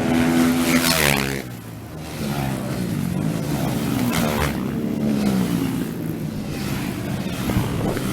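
Racing motorcycles passing at speed on the street circuit, engines high-revving; the first and loudest goes by in the first second with its pitch dropping sharply as it passes, followed by more bikes a few seconds later.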